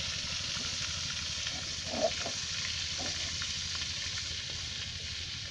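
Chicken pieces frying in oil and spices in a metal wok over a portable gas stove, sizzling steadily while steel spoons stir and scrape the pan. A louder knock comes about two seconds in.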